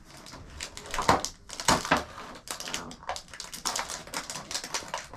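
Plastic packaging crinkling and rustling as it is handled, with irregular crackles throughout and the loudest crunches about a second and two seconds in.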